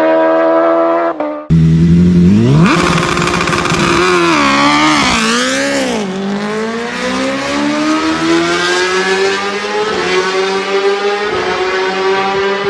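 Kawasaki motorcycle engines at high revs: one holds a steady high note that cuts off about a second and a half in, then a second bike revs up, is blipped up and down a few times, and climbs steadily in pitch as it accelerates.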